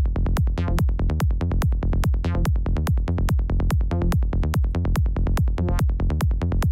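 Psytrance synthesizer sound built in the Serum synth, playing fast, short, evenly repeated notes that each drop quickly in pitch: the classic psychedelic trance sound being demonstrated.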